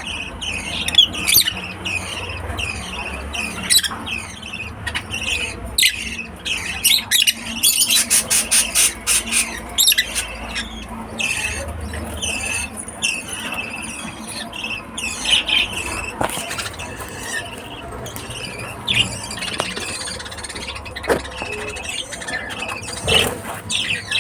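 Lovebirds chattering with shrill, high chirps and squeaks, including a fast run of chirps about eight seconds in.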